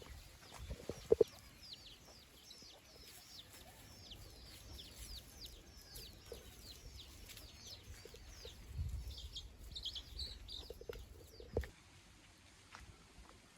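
Free-range native chickens calling: a long run of short, high chirps, each falling in pitch, a few a second, with a couple of sharp knocks about a second in and another near the end.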